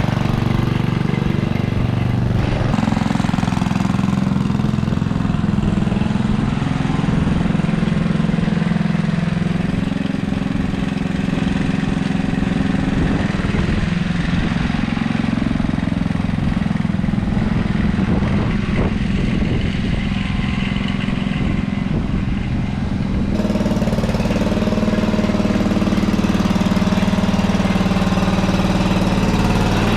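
Simplicity Landlord garden tractor's engine running, brought back to life by a new points and condenser kit that restored its spark. It runs unevenly at first, then settles to a smoother, steadier note about two-thirds of the way through.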